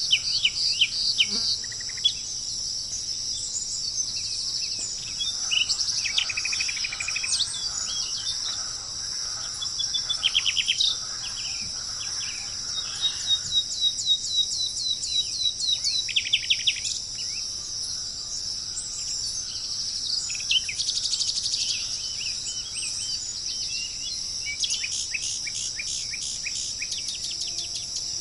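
Songbirds singing in short, rapid trilling phrases over a steady, high-pitched chorus of insects such as crickets.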